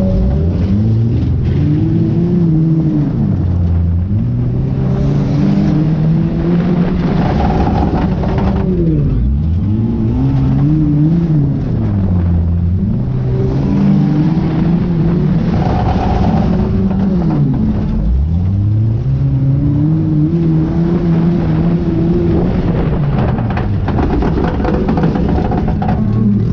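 A junk race car's engine working through repeated cycles: it revs up hard, then drops back as the throttle is lifted, about every five to eight seconds, the pattern of laps with straights and turns.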